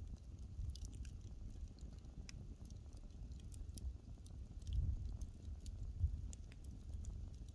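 Wood fire crackling: scattered sharp pops and snaps over a low, steady rumble of burning.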